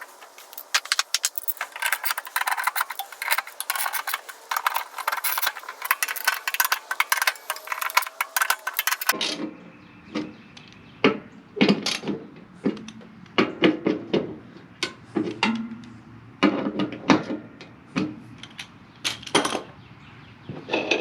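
Metal tools and mower-deck hardware clicking and clanking as parts are worked on by hand: a dense run of rapid clicks, then after a sudden change about nine seconds in, separate clanks of metal on metal, some with a short ring.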